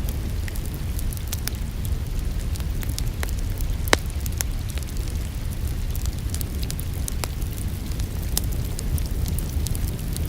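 Wood fire crackling in a fireplace, with scattered sharp pops over a steady low rumble, one pop louder about four seconds in, mixed with the hiss of rain.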